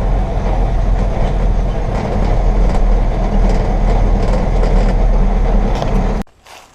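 Grain truck running and rattling, heard from the cab: a loud, steady rumble that stops abruptly near the end.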